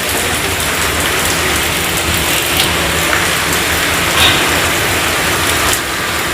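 Heavy rain falling steadily, with a few sharper drops or taps standing out.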